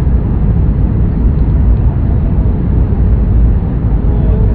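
Steady, loud low rumble of an airliner landing, with no distinct events.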